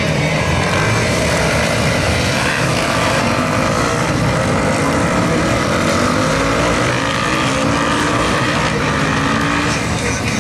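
Several supermoto motorcycle engines running on a track, their pitches rising and falling and overlapping as they rev and shift.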